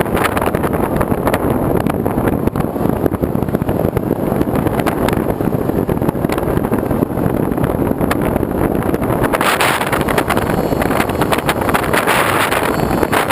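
Loud, steady rushing noise of wind buffeting the microphone, with a hissier stretch near the end.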